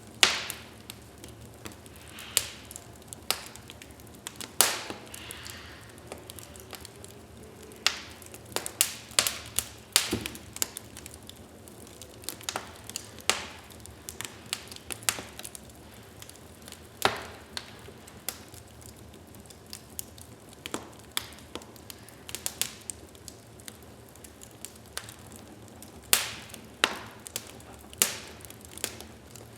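Wood fire crackling in a fireplace: irregular sharp pops and snaps of burning logs, some loud, over a soft steady hiss.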